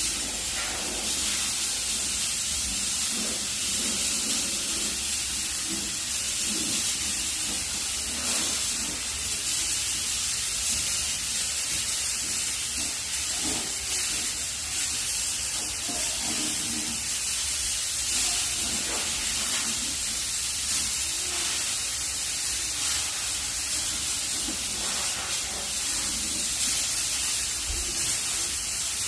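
Steam cleaner blowing steam, a steady high hiss that does not let up.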